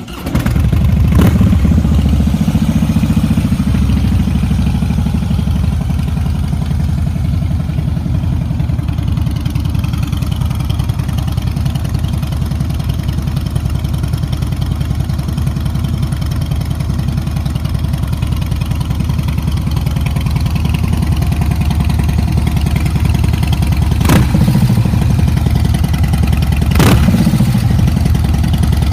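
Harley-Davidson Breakout's air-cooled Twin Cam 103 V-twin running through Vance & Hines slip-on mufflers, idling steadily with short blips of the throttle about a second in and twice near the end.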